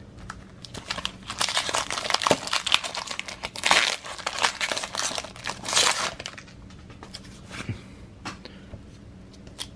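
A baseball-card pack wrapper being torn open and crinkled for about five seconds. It then goes quieter, with a few light ticks as the cards are handled.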